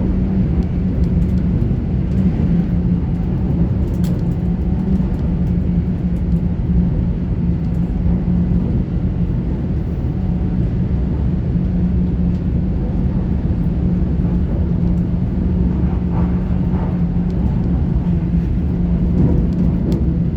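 Interior running noise of a GWR Class 800 IET train: a steady rumble of wheels on track with a constant low hum.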